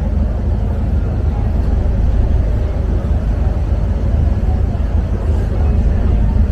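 Steady low rumble aboard a passenger ferry under way on the Bosphorus.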